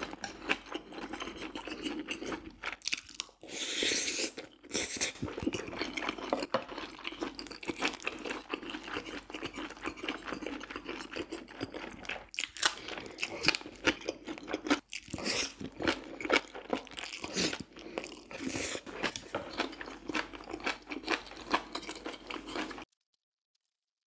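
Close-miked chewing and crunching of food, dense and irregular, with a few louder noisy surges; it cuts off abruptly near the end.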